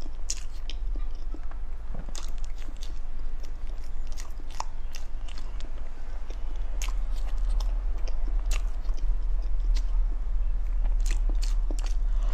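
Close-miked chewing of matcha mille crêpe cake: wet mouth clicks and smacks at an irregular pace, with another bite taken near the end, over a steady low hum.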